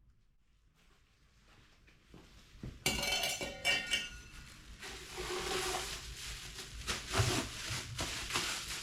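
Near silence for about two seconds, then metal parts clinking and knocking as they are handled, in scattered irregular strikes with the sharpest knock a little past the middle.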